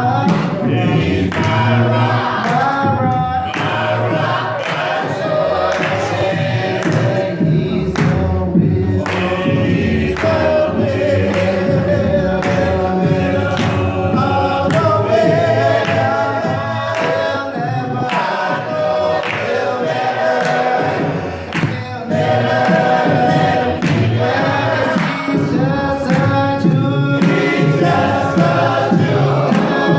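A choir singing a gospel song, with a steady beat throughout.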